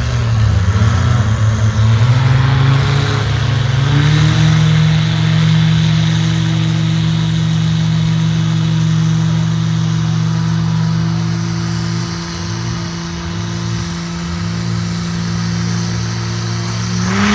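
Diesel pickup truck engine at full throttle on a drag strip. It climbs in pitch over the first few seconds, then holds a steady high pitch, and a second engine's pitch wavers briefly later on.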